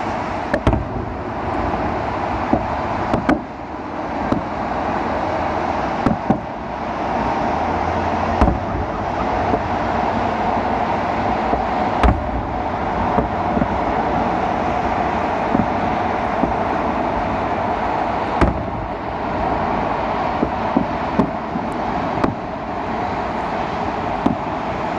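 Fireworks salute shells bursting with short sharp bangs at irregular intervals, a few seconds apart, over a steady rushing background noise.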